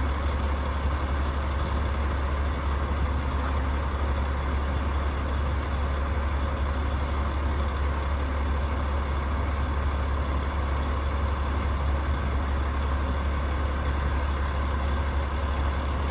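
Rooftop HVAC unit running with a steady low hum that does not change.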